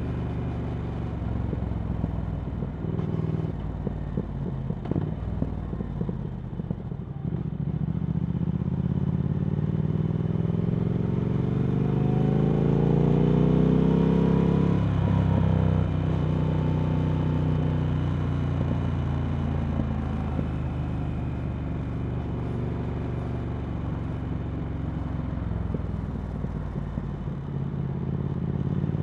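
Triumph Speed Twin 1200's parallel-twin engine through Vance & Hines slip-on exhausts, heard on the move. It runs unevenly with a few sharp clicks for the first several seconds, then the revs climb steadily for about seven seconds under acceleration. They drop suddenly about halfway through, and the engine settles into steadier running that slowly falls.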